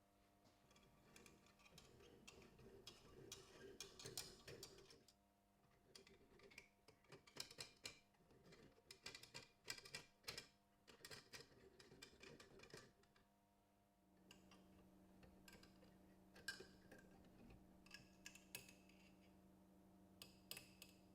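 Faint, irregular small clicks and light scrapes of watchmaker's tools handling small metal watch parts. A low steady hum becomes louder about two-thirds of the way through.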